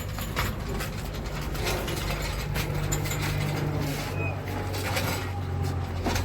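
Tool work on a car's suspension: irregular metallic clicks and knocks over a steady low hum.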